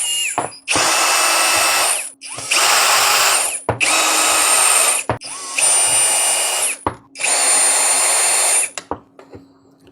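Cordless WORX mini drill driving out the case screws of a power supply: five short runs of its motor whine, each about a second and a half, with brief pauses between screws.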